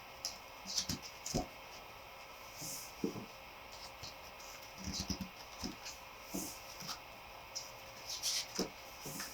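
Paper handling: a photo book's pages and printed matter being turned and moved, giving a dozen or so short, irregular rustles and light taps.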